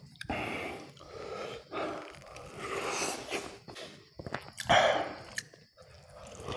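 Close-miked chewing and biting of KFC fried chicken: irregular wet mouth noises and crunches, with a louder noisy burst about three-quarters of the way through.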